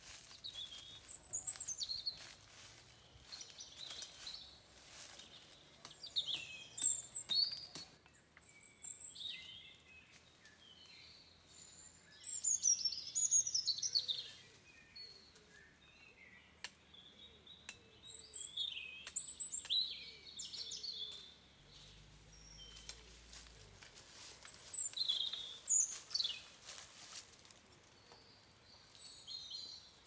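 Forest birds chirping and calling in short, repeated high phrases, some gliding up or down, with scattered light crackles of dry leaves and twigs underfoot.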